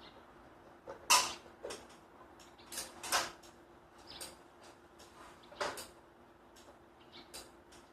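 Irregular sharp clicks and knocks, about a dozen, the loudest about a second in, over a faint steady hum.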